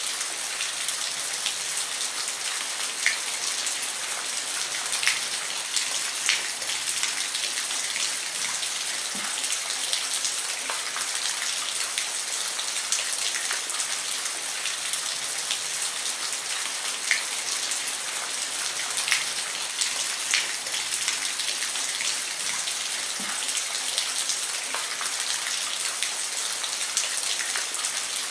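Steady rain falling on a roof, a continuous hiss with individual drops ticking sharply above it every second or two.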